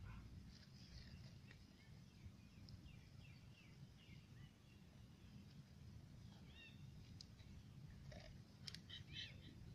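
Quiet outdoor background with faint bird chirps, a few short calls clustered near the end along with some light clicks.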